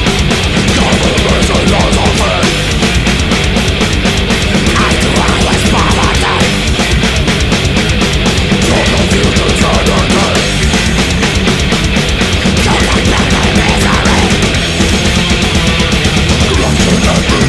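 Death/thrash metal recording: distorted guitars and bass over fast, dense drumming, loud and unbroken.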